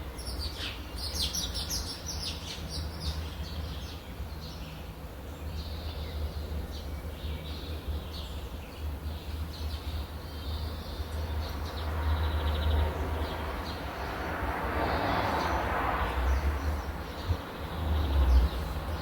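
Small birds chirping in quick bursts in the first few seconds, over a steady low rumble. In the second half, a broad rushing noise swells up and fades again.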